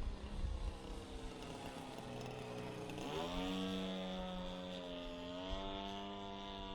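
G26 two-stroke gas engine of a large RC Piper Cub running in flight, turning an 18x8 propeller. Its pitch rises sharply about three seconds in, then holds steady.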